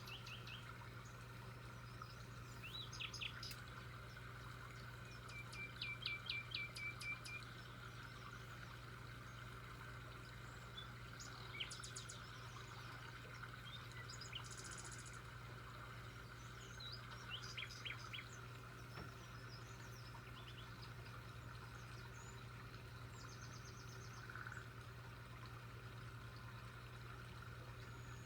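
Wild birds chirping in scattered short bouts of quick, high notes, over a steady low hum.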